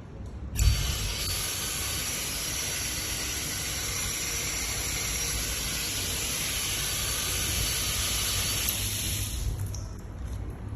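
Water running hard from a wall-mounted mixer tap, a steady rushing spray that starts with a short knock about half a second in and drops away briefly near the end.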